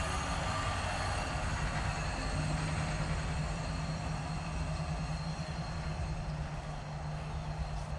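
Train rolling past on the track: a steady low rumble of wheels on rail, with a steady low hum joining about two and a half seconds in.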